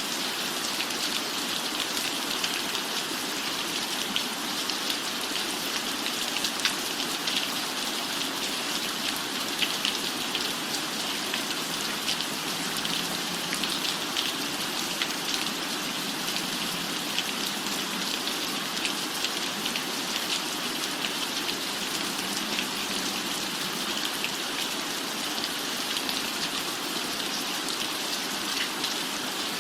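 Steady rain falling on a cabin roof, an even hiss with many individual drops ticking through it.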